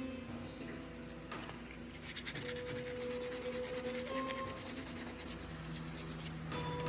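Rapid back-and-forth rubbing strokes on the steel katana blade, as in hand sanding, starting about two seconds in and stopping near the end, over steady held background music tones.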